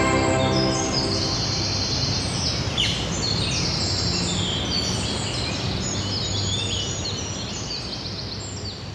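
Several songbirds chirping and trilling over a steady background hiss, slowly getting quieter.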